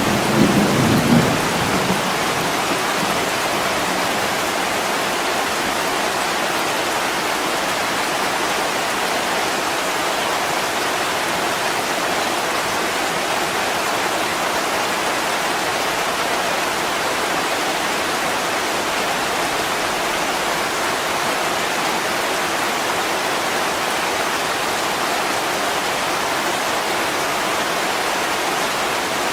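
Heavy rain falling in a steady, even hiss. The tail of a low thunder rumble dies away in the first couple of seconds.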